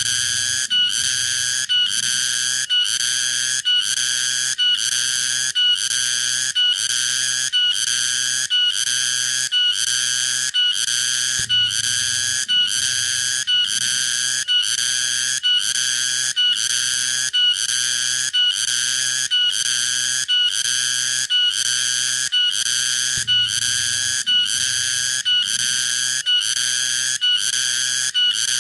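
Cicada (tonggeret) calling in a steady, unbroken series of shrill buzzing pulses, about one and a half a second, each separated by a short gap.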